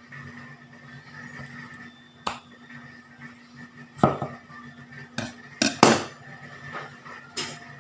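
Kitchenware clinking and knocking: about six sharp, irregular clinks, several with a short ring, the loudest a little before the end, over a faint steady hum.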